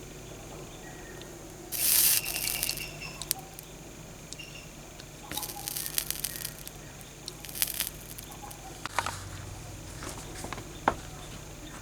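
Hand work on a small metal toy car: two bursts of rough, scratchy noise about a second long, then a shorter one, with scattered sharp clicks and taps.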